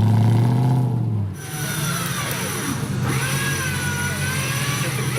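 Off-road competition vehicle's engine running hard for about a second, then the sound dips. After that the engine runs on at a lower note under a high, wavering whine from its high-speed electric winch.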